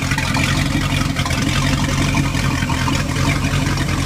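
Chevrolet 454 (7.4 L) big block V8 marine engine running steadily at idle on a test run, with no knocks or valve tick: a good running motor.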